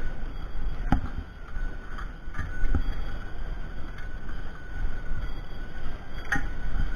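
Royal Enfield Classic 350 single-cylinder motorcycle being ridden, its engine running under a steady rumble of wind on the microphone. There are two sharp knocks, about a second in and near the end.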